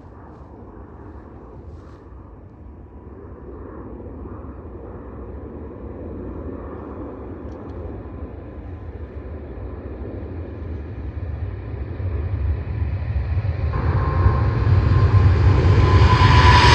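Boeing 777-300 jet engines at takeoff power, a low rumble that grows steadily louder as the airliner comes closer. Near the end a high engine whine joins in and begins to fall in pitch.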